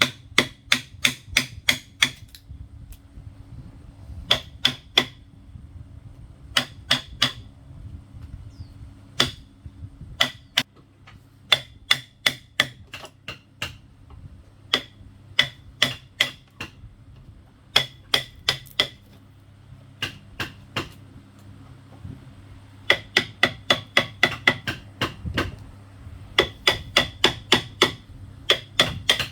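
A hammer striking, likely driving nails into bamboo, in quick runs of several blows separated by short pauses. A faint steady hum runs underneath.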